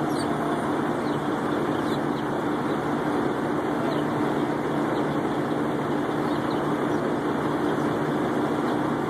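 Steady hum of an idling truck engine, even in level throughout, with a few faint short bird chirps now and then.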